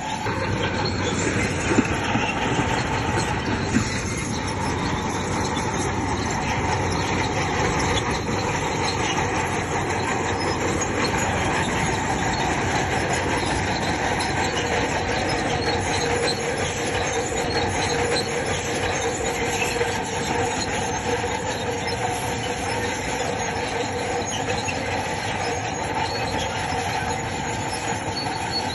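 Crawler bulldozer working: engine running under load while its steel tracks squeal and clank steadily, with a couple of sharp metallic knocks in the first few seconds.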